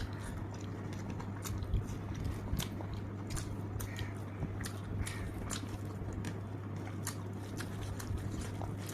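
Close-miked mouth sounds of someone chewing food, with irregular crisp crunching clicks, several a second. A steady low hum runs underneath.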